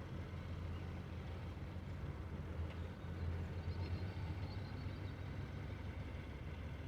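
Tractor engine running steadily, a low even hum.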